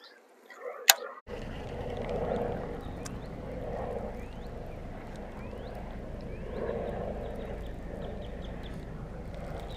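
A single sharp click about a second in, then a steady low rumbling noise with short rising bird chirps repeating through it.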